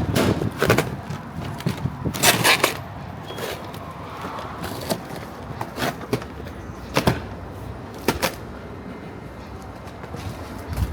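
Scattered sharp knocks and clicks, a few seconds apart, over steady background noise; the strongest come in a short cluster a couple of seconds in and twice more near the end.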